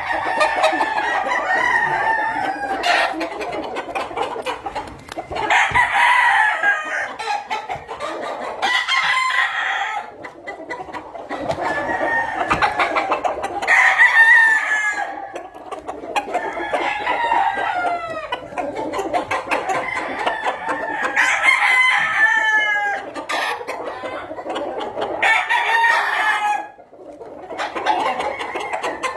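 Gamefowl roosters crowing one after another, a new crow starting every two to three seconds and often overlapping the last, as from a large yard of cocks.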